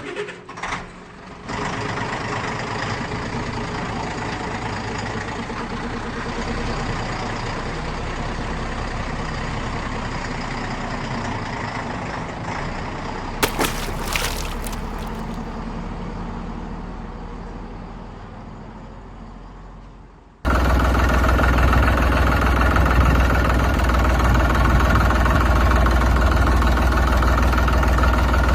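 Heavy vehicle diesel engine running, heard across several edited clips. Midway there is a brief cluster of sharp clicks; about two-thirds in a sudden cut brings a louder, deeper engine sound.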